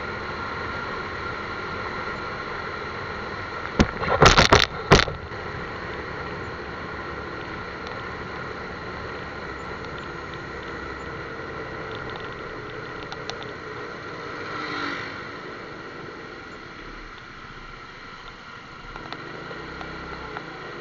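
Steady motor vehicle running, with a loud, sharp burst of noise about four seconds in.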